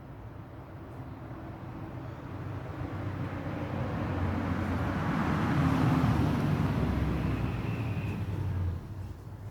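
A road vehicle passing by: engine and tyre noise grows steadily louder, peaks about six seconds in, then fades and drops away near the end.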